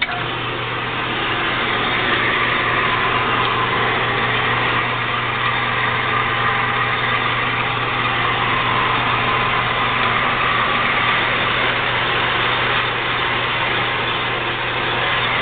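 JET 7" x 12" horizontal metal-cutting band saw switched on and running steadily: the electric motor hums while the drive pulleys and blade run, loud and even once it is up to speed about two seconds in.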